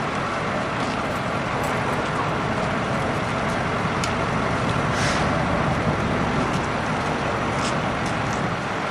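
Steady rumble of idling vehicle engines, with a few faint clicks and knocks.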